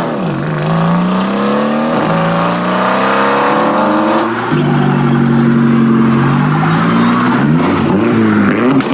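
Modified performance car engine accelerating hard. The note climbs and drops twice as it shifts up, holds a steady pitch, then rises and falls in a few quick revs near the end.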